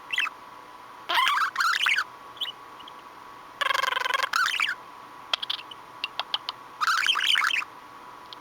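Pet budgerigar chattering and chirping in four short bursts with pauses between them.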